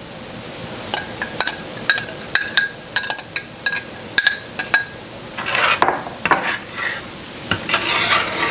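A spoon clinking against a pan about a dozen times while stirring heavy cream into a Marsala sauce, then rougher scraping strokes across the pan in the last few seconds, over a faint sizzle.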